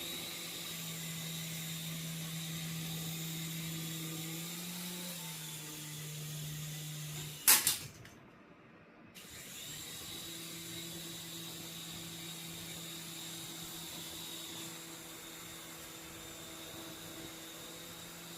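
Small toy RC helicopter's electric motors and rotors whirring with a steady hum and a high whine, the pitch shifting slightly now and then. About seven and a half seconds in comes a sharp knock, the loudest sound; the whir drops out for a couple of seconds and then spins back up steadily.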